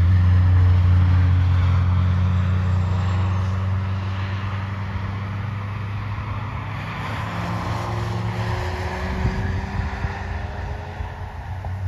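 Nissan 300ZX Twin Turbo's twin-turbo V6 running on track, a steady low engine note that slowly fades. In the last few seconds the revs rise again.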